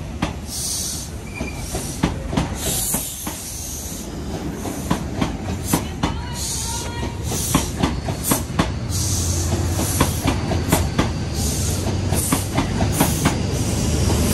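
Midland Pullman HST's Mark 3 coaches rolling slowly past, wheels clicking over rail joints with intermittent squeal and hiss. From about nine seconds in, a steady low drone builds and the level rises as the rear power car's diesel engine draws near.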